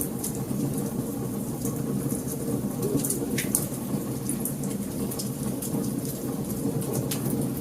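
Wood burning in a fireplace: a steady low rush of flames with frequent sharp crackles and pops from the logs.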